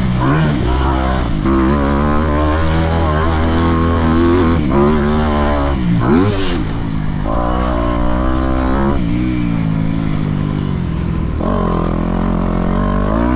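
Motocross bike engine revving hard under throttle, its pitch climbing, holding and dropping again and again as the rider accelerates, shifts and backs off.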